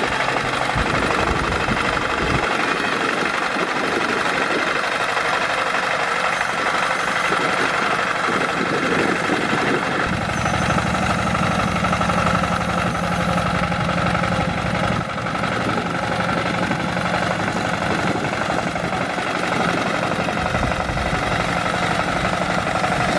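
Small motor of a DIY mini tractor running steadily with a dense mechanical drone, its low end changing about two and a half seconds in and again about ten seconds in.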